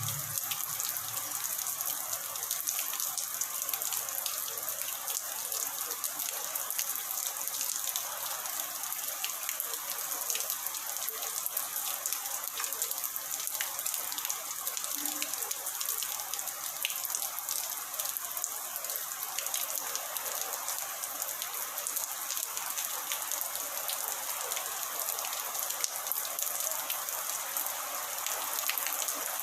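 Rain falling steadily, an even hiss with scattered sharper drop hits.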